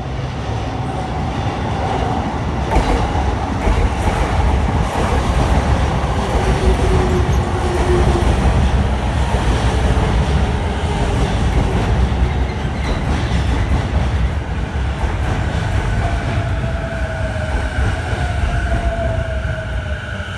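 A JR Saikyo Line E233-series electric commuter train running past at close range. The rumble of its wheels on the rails builds over the first few seconds, then holds steady. Whining tones ride on top, and one slides gently down in pitch over the last few seconds.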